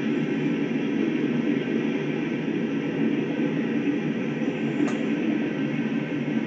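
A train passing: a steady rumble of wheels on rail, with one brief click about five seconds in.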